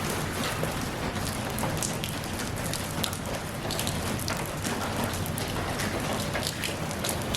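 Steady rain falling, with many individual drops striking a surface close by.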